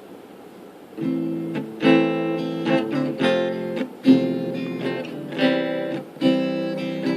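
Acoustic guitar strumming chords, starting about a second in, with a sharp strum attack every second or so.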